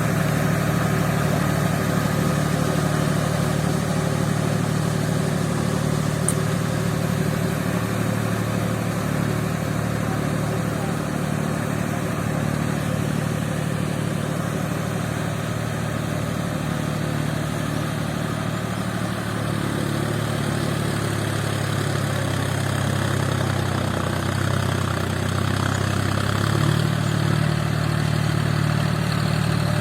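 John Deere 5050D tractor's three-cylinder diesel engine running steadily under load. Past the middle its note dips and wavers for several seconds, then steadies again.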